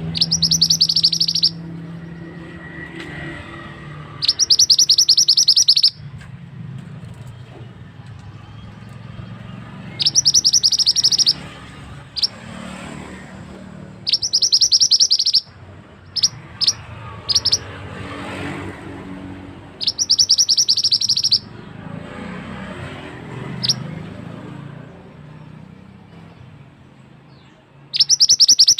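Mantenan bird singing: loud, high, rapid trilled phrases about a second and a half long, repeated every four to six seconds, with a few short separate notes between them. A steady background of running water lies underneath.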